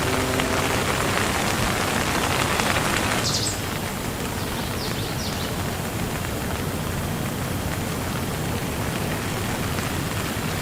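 Steady rainfall, an even hiss of falling rain. About three seconds in the sound becomes a little softer and duller and then stays steady.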